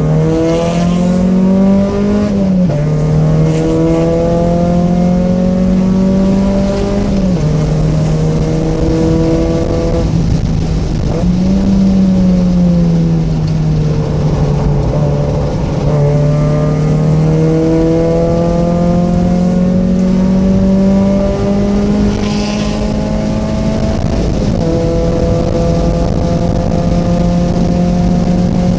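Mazda Miata 1.6 inline-four engine with aftermarket headers and exhaust, pulling hard on a canyon road. The pitch climbs steadily through each gear and drops sharply at the gear changes, several times. Near the middle the engine winds down for a few seconds before it pulls again.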